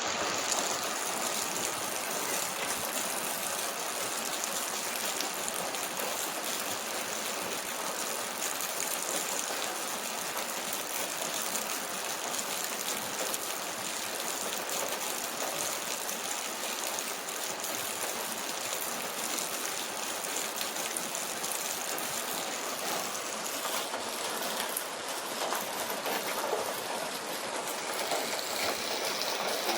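Steady rain falling, a dense even hiss of many drops.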